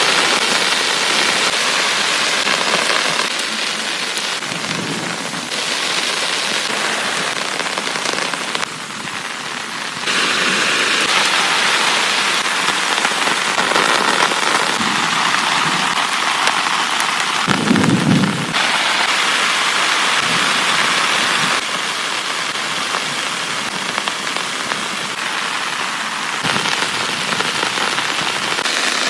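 Heavy rain pouring down in a dense, steady hiss that shifts abruptly in character several times. A brief low rumble of thunder comes a little past halfway.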